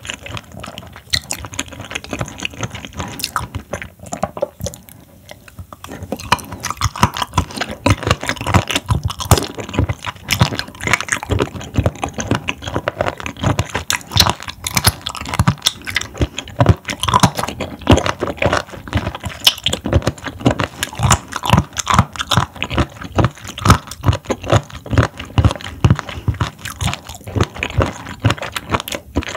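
Close-miked chewing of raw seafood sashimi, with wet, crunchy bites repeating irregularly and a short lull about five seconds in.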